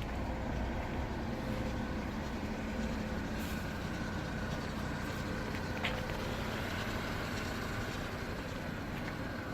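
A steady mechanical rumble with a thin, constant high whine over it, and a brief squeak about six seconds in: the unwanted extraneous noise from a running machine.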